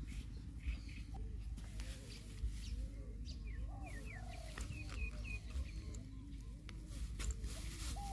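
Doves cooing, a run of repeated soft arched coos. A few quick, high, falling chirps from a smaller bird come in about halfway through.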